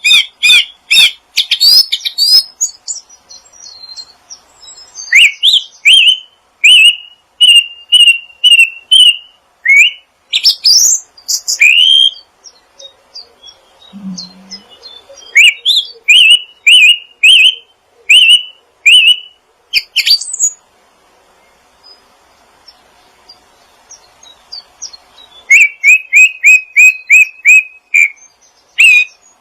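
A songbird calling in series of short, sharp chirps, about two a second, in phrases broken by pauses, with a quiet spell about two-thirds of the way in and a faster run of chirps near the end.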